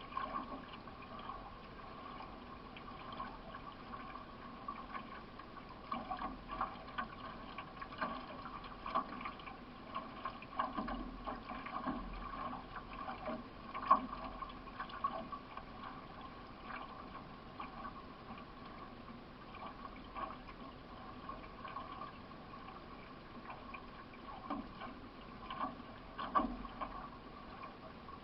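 Water splashing and dripping from repeated canoe paddle strokes over a steady wash of water along the hull, picked up from onboard a solo racing canoe. There is one sharper splash or knock about halfway through.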